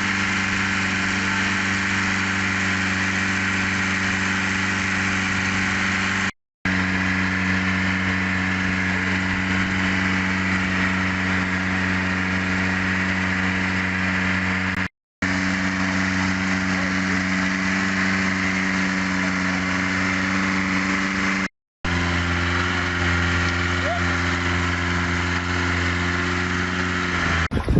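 Long-tail boat engine running at a steady speed, an even drone broken by three short silent gaps. After the last gap it runs at a slightly lower pitch.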